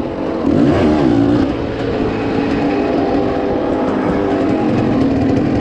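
Dirt bike engine revving, its pitch rising and falling about a second in, then running steadily.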